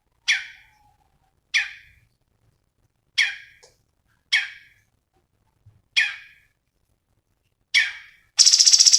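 Cucak cungkok songbird giving six short, sharp single calls, about one every second and a half, each fading quickly. Near the end a loud, fast, unbroken trill of high notes starts up.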